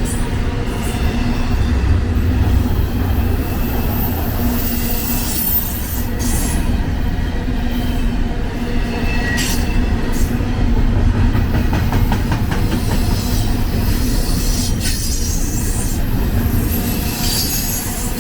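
BNSF intermodal freight train's loaded container cars rolling past close by: a steady, loud rumble of steel wheels on rail, with a few short wheel squeals and clanks.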